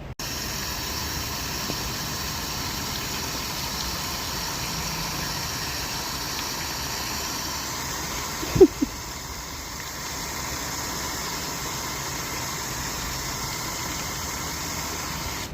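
Steady rushing of running water that starts and stops abruptly, with a short double call from a Cayuga duck about eight and a half seconds in.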